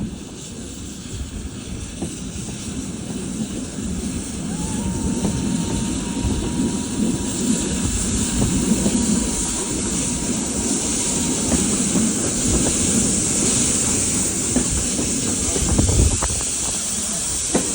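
A steam-hauled train running, heard from a Mk1 carriage window: wheels rumbling on the rails with a steady hiss, growing louder over the first several seconds. A thin steady whine holds for several seconds midway.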